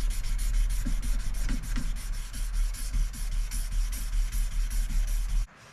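Damascus steel knife blade being hand-sanded with 800-grit sandpaper: quick back-and-forth rubbing strokes, about four or five a second, cutting off suddenly near the end.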